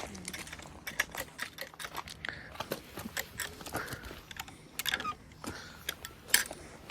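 Irregular light clicks and taps, some bunched together about five seconds in and again near the end.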